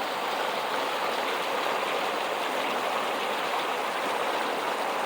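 Small waterfall splashing and rushing steadily, an even hiss of running water.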